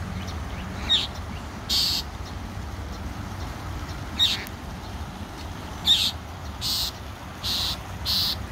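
Birds scolding: three sharp, falling chirps and several harsh, raspy calls, the raspy calls coming closer together near the end.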